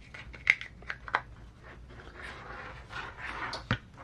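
Small parts being handled on a workbench: a few sharp clicks, with soft rustling in between.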